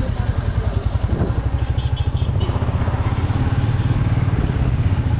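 Motorcycle engine running under way with a fast, even low pulse.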